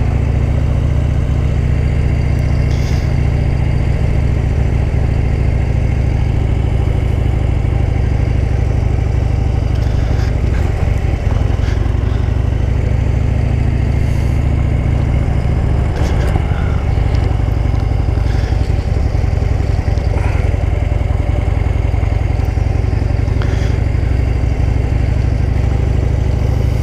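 Motorcycle engine running steadily while riding, its pitch holding nearly constant with only a slight change about two-thirds of the way through.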